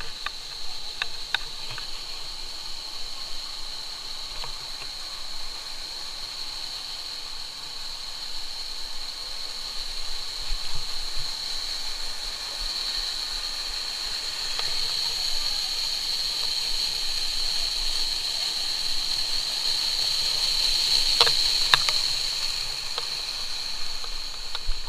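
A steady high-pitched hiss over the faint rush of stream water. The hiss swells in the second half, and a couple of sharp clicks come near the end.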